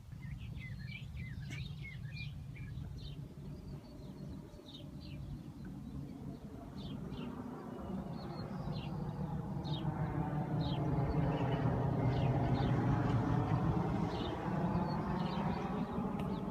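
Small birds chirping in short, scattered calls over a steady low mechanical hum. The hum grows louder about halfway through.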